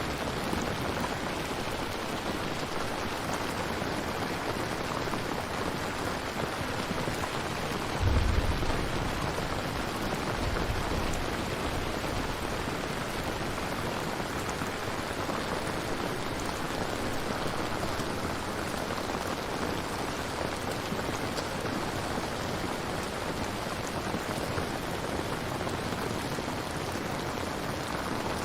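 Steady, heavy rain with an even hiss of drops on surfaces. A short low rumble of thunder rises about eight seconds in, and a fainter one follows a couple of seconds later.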